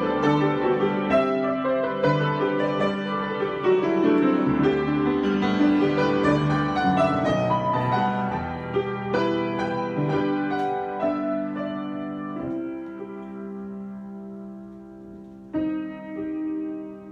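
Solo piano improvisation: a busy, flowing passage of chords and moving notes, easing into softer held chords that die away, with a new chord struck near the end.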